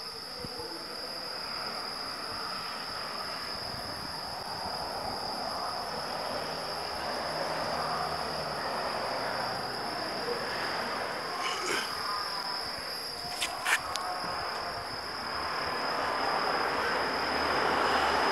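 Outdoor ambience with a steady high insect trill over a hiss, broken by a few sharp clicks about eleven and thirteen seconds in.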